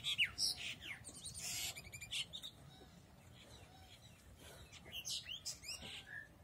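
Small birds chirping: many quick, high calls and pitch sweeps, thickest in the first two seconds and again about five seconds in.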